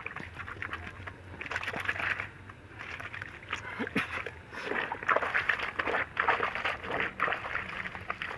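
Wet clothes being scrubbed by hand in a bowl of soapy water: irregular sloshing strokes, getting louder and busier from about halfway.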